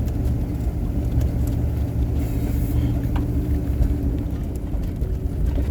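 Engine of a snowplow vehicle running steadily, a constant low hum.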